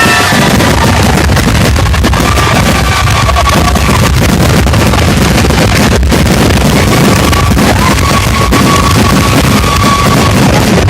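Fireworks grand finale barrage: rapid, overlapping bursts running together into one unbroken loud din.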